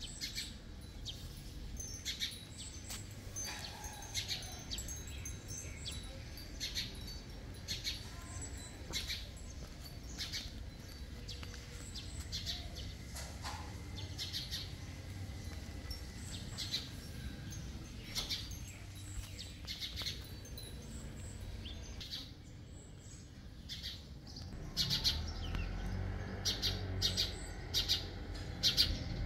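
Small birds chirping, many short high chirps repeated throughout, over a low background rumble that grows louder near the end.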